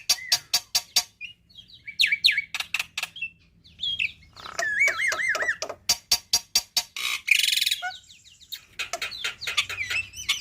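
Black-winged myna (jalak putih) singing a varied song: rapid runs of sharp clicks and chatter mixed with rising and falling whistles, a wavering whistle run near the middle and a harsh rasping note about two-thirds through.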